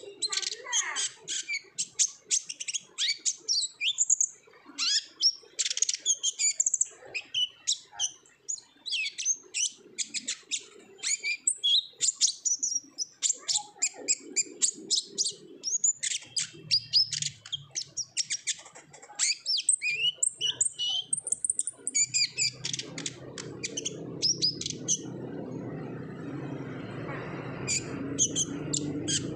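Kolibri ninja (a sunbird) singing in its fast, busy 'ngobra' style: a dense run of rapid, high chirps and twitters with short pauses. From about halfway a low hum comes in underneath and grows louder toward the end.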